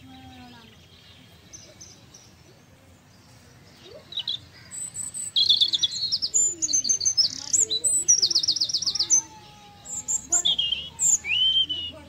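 Small birds chirping and singing, with rapid high trills and short whistled notes that glide up and down. Quiet for the first few seconds, then busy from about four seconds in.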